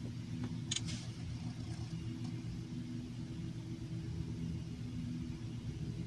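Lincoln car engine idling steadily; the owner says it seems to misfire since a tune-up. A brief click about a second in.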